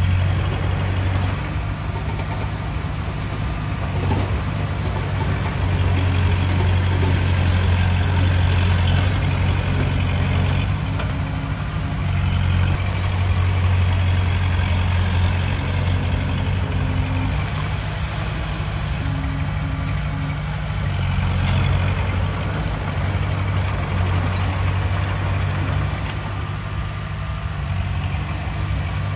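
Heavy diesel engine of earthmoving machinery running under changing load, its low drone swelling louder several times.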